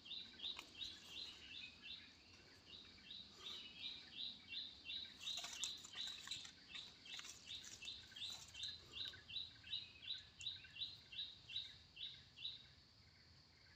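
A bird calling in a rapid run of short, high chirps, about three a second, faint over quiet outdoor background; the calls stop near the end.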